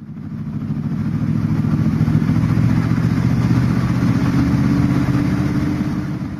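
Car engine running steadily while driving along the road. It fades in at the start and fades out near the end.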